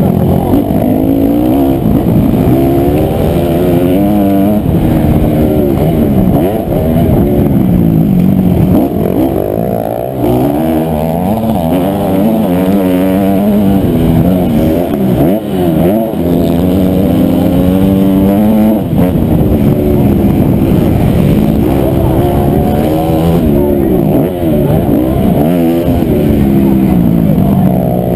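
Honda CRF250R four-stroke single-cylinder motocross engine revving hard, its pitch climbing and dropping again and again as the rider accelerates, shifts and backs off through the course.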